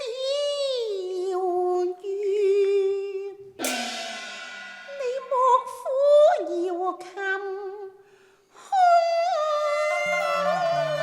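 Cantonese opera music: a sliding, wavering melodic line with a single cymbal crash about three and a half seconds in. The music breaks off briefly near the end, then resumes with a low held note underneath.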